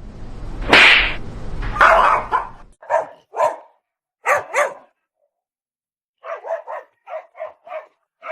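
A loud rushing noise for the first two seconds or so, then a dog barking: two pairs of short barks, then a quick run of barks at about four a second near the end.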